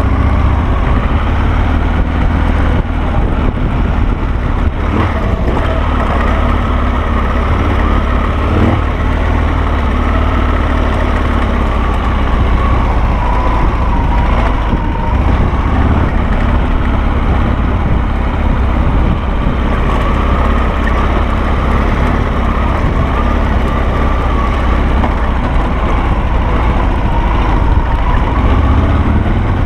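Harley-Davidson Sportster V-twin engine of a Carducci SC3 Adventure dual-sport motorcycle running steadily as the bike is ridden, its pitch wavering slightly.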